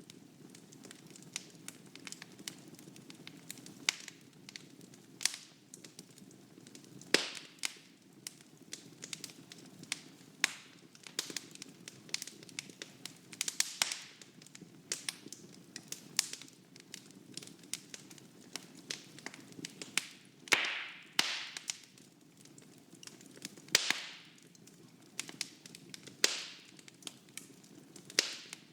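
Wood fire burning in a fireplace: irregular crackles and sharp pops over a low steady rush of flame, with a few louder snaps scattered through.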